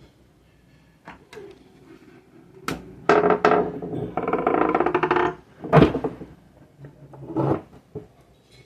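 Metal parts of a sewing machine being handled during reassembly: a series of sharp knocks and clacks, with a scraping rattle for about a second in the middle and the loudest knock just before the six-second mark.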